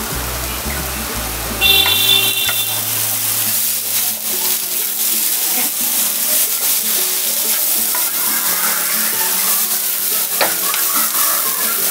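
Spatula stirring and scraping split red lentils (masoor dal) frying in oil in a nonstick pan, with a steady sizzle, starting about two seconds in.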